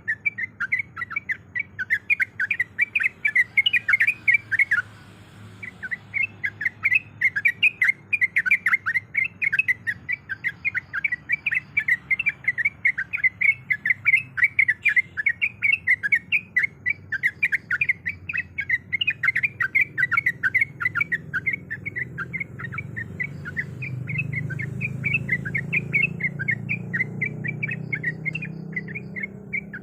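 Yellow-vented bulbul calling in a fast, unbroken chatter of short, sharp notes. The chatter stops for about a second some five seconds in, then resumes.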